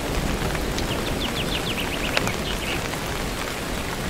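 Steady rain, with a quick run of short bird chirps about a second in and a few more shortly after.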